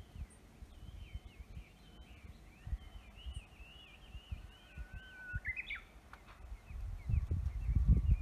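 Songbirds singing: a long run of quick twittering chirps, then about five seconds in a held whistled note that jumps up into a short, quick higher phrase. Beneath them is an uneven low rumbling and thumping that grows louder near the end.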